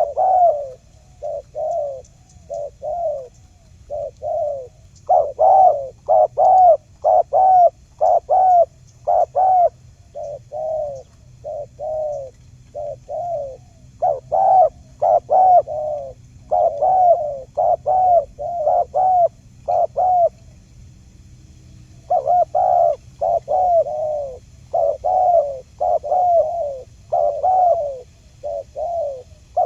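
Spotted dove (tekukur) cooing: short, arched coos repeated in runs of several, one to two a second, with brief pauses about ten seconds in and again about twenty seconds in. A faint low hum runs underneath.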